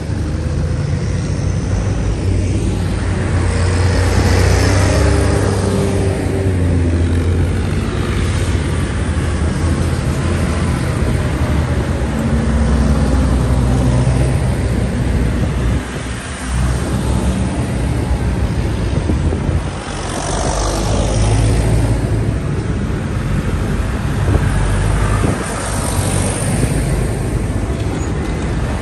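Tractor engines running as tractors drive past one after another, with several louder passes along the way.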